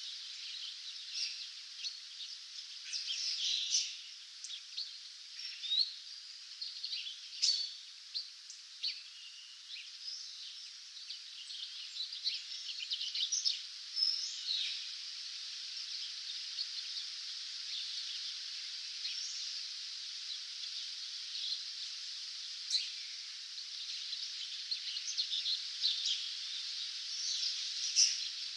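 Dawn chorus of many songbirds: overlapping chirps and short trills over a steady high hiss, with a few louder calls standing out.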